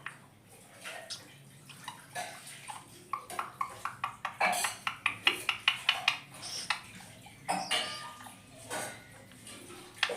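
Indian ringneck parakeet making a quick run of sharp clicks and taps in the middle, with a few short high squeaks here and there.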